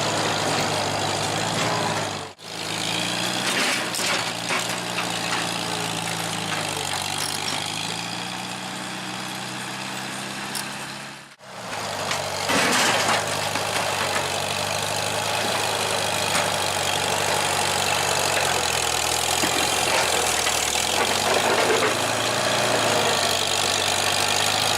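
1949 International W4 tractor's four-cylinder engine running steadily, its pitch rising and falling a few seconds in. The sound cuts out abruptly twice, briefly.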